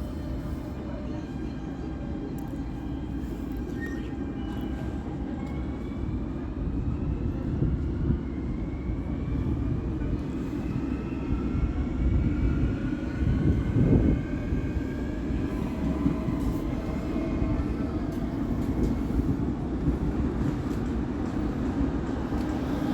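SNCF Z 58000 electric multiple unit pulling away from a station platform: a heavy rolling rumble, with the traction motors' whines rising in pitch as it accelerates.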